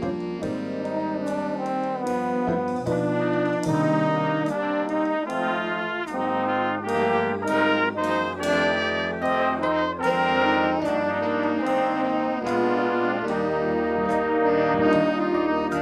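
Brass ensemble playing music, a run of held chords and crisp note attacks.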